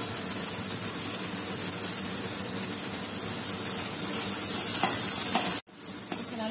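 Chopped onion, garlic and tomato sizzling in groundnut oil in a stainless-steel kadai as a metal spoon stirs them, a steady frying hiss. The sound cuts out abruptly for a moment about five and a half seconds in.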